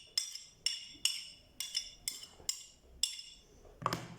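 A utensil tapping and scraping against a bowl while chermoula ingredients are added: about eight sharp, ringing clinks at irregular intervals of roughly half a second.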